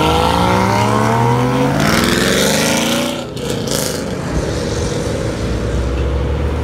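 A sports car's engine accelerating hard away, its pitch climbing and dropping back once at an upshift about two seconds in before climbing again. After about three seconds it gives way to a lower, steady engine sound from other cars on the road.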